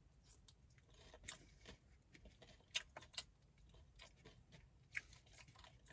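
A person chewing close to the microphone, faint, with scattered sharp crunches and mouth clicks; the loudest come a little before and after three seconds in and again near five seconds.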